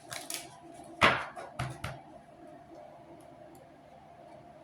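Tarot or oracle cards being handled and laid down on a table: a handful of sharp taps and slaps in the first two seconds, the loudest about a second in, then only faint ticks.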